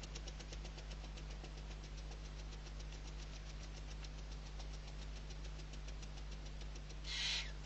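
Rapid, even ticking, about eight ticks a second, over a steady low electrical hum. Near the end comes a short, hoarse hiss from a barn owl chick.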